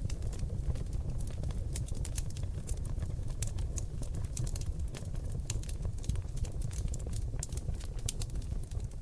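Seasoned oak logs burning in a fireplace, crackling with many irregular sharp pops and clicks, several a second, over a steady low rumble of flame.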